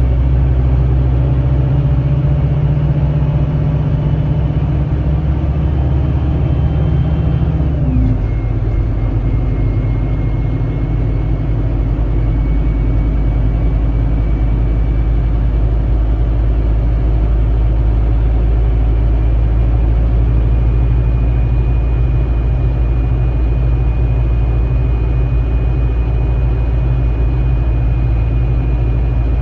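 Scania K310IB bus's diesel engine pulling under load. About eight seconds in the note drops abruptly, like an Opticruise gear change, and then climbs slowly again in the next gear, with a faint high whine above it.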